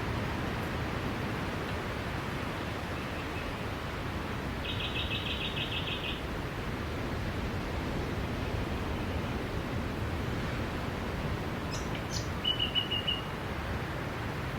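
Steady rush of sea surf with a bird calling over it: a rapid high trill about a third of the way in, and a shorter twitter near the end.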